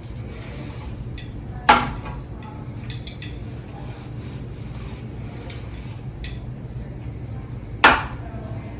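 Two sharp clacks of hard objects knocking together, about six seconds apart, with a few faint ticks between them over a steady low hum.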